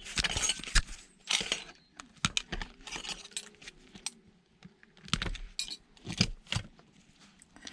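Loose scrap metal parts clinking and clattering as they are handled, a string of irregular sharp knocks and rattles.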